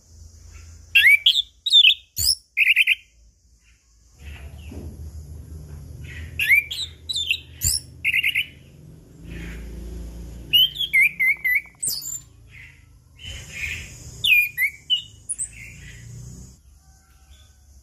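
Orange-headed thrush (anis kembang) singing in short, varied phrases of quick whistled sweeps, rapid trills and slurred notes, with short pauses between phrases.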